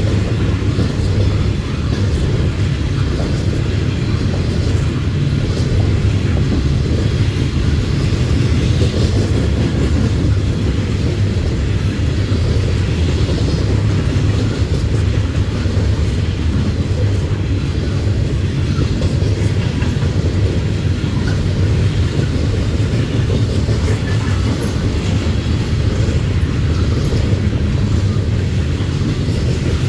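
Norfolk Southern freight train of loaded coal gondolas rolling past, a loud, steady low rumble with no break.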